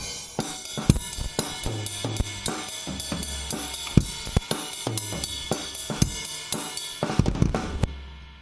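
SJC Pathfinder three-piece drum kit with stock heads played in a steady groove: bass drum and snare hits under regular cymbal strokes. Near the end comes a quick burst of hits, then the kit rings out and fades.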